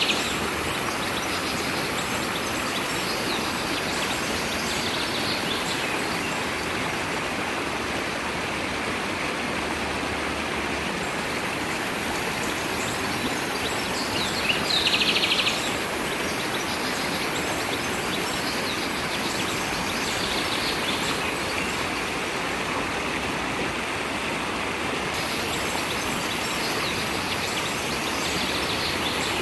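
A stream running steadily, with a bird chirping in short bursts a few times; the clearest burst comes about halfway through.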